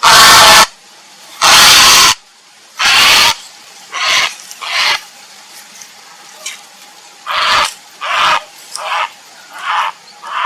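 Grey herons giving harsh, croaking calls, each about half a second long: three loud calls in the first three seconds or so, then a string of quieter, shorter calls.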